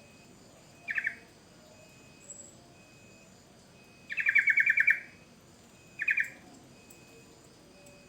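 Yellow-vented bulbul (trucukan) calling: a short burst about a second in, a rapid trilled phrase of about ten quick notes about four seconds in, and another short burst about six seconds in.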